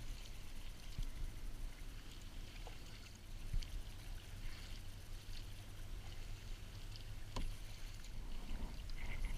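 Kayak out on the water: faint water sounds around the hull over a steady low rumble, with a few small clicks and knocks, the sharpest about three and a half and seven seconds in.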